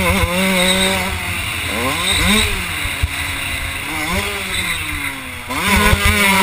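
Kawasaki KX 125's two-stroke single-cylinder engine being ridden hard, its pitch rising and falling repeatedly with the throttle. It climbs steeply near the end and holds high, with wind rushing over the helmet-mounted microphone.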